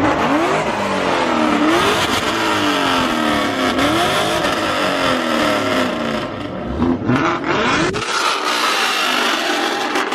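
Loud car engine being revved again and again, its pitch sweeping up and down in repeated rises and falls. After about eight seconds the deep rumble drops away.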